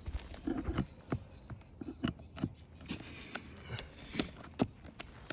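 Old, brittle asphalt roof shingles being lifted and handled: a string of irregular crackles, clicks and scrapes.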